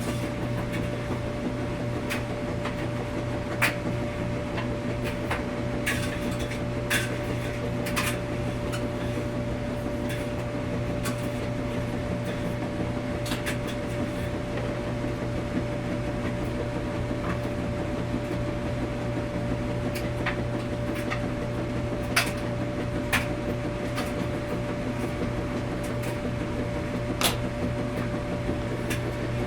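Washing machine running with a steady low hum and a constant whine. Irregular sharp clicks and knocks come every few seconds.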